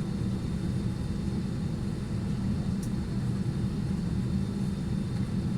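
Steady low rumble of airliner cabin noise, even and unchanging throughout.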